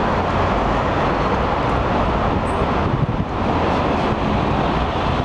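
Steady rushing outdoor noise with a low rumble, typical of city street traffic.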